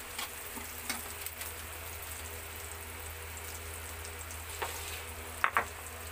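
Diced ginger and onion sautéing in butter in an aluminium wok: a steady sizzle as the aromatics brown. A few short light clicks break in, and a couple of louder ones come near the end.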